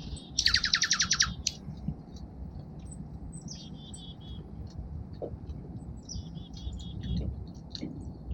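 Small songbirds calling: a loud, fast trill of about ten notes sweeping downward in the first second, then scattered short chips and, twice, a high note followed by a quick run of repeated lower notes.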